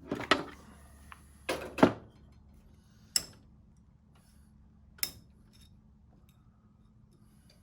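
Metal tool working at an espresso machine group head to pry out the old shower screen: a handful of sharp metallic clicks and knocks, the loudest cluster about two seconds in, then single clicks about three and five seconds in.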